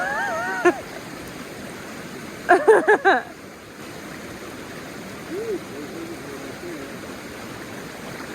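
Steady rush of river water running high after heavy rain, with short high vocal sounds at the start and again about two and a half seconds in.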